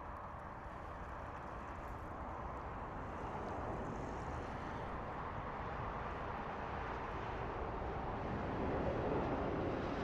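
Steady rumble of a passing vehicle, growing gradually louder toward a peak near the end.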